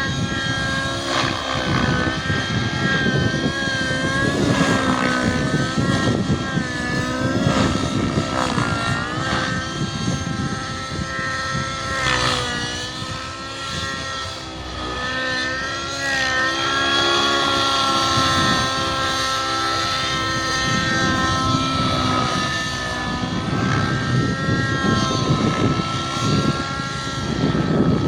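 Radio-controlled helicopter in flight, its motor and rotor whine wavering up and down in pitch as it manoeuvres.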